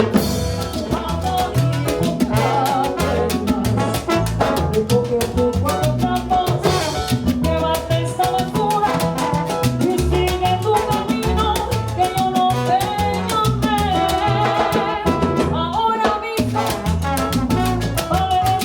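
Live salsa band playing: piano, bass, timbales, congas and trombones, with a melodic line that may be voices.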